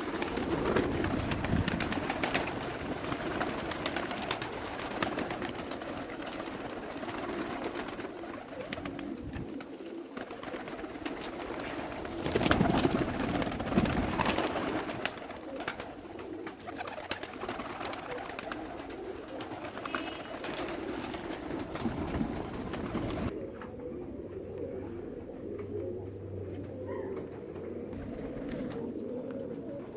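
Pigeons cooing repeatedly, over a steady hiss that cuts off suddenly about three-quarters of the way through.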